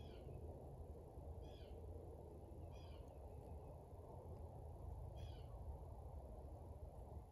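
A bird calling, a short wavering call repeated four times about every second and a half, faint over a steady low rumble of outdoor background noise.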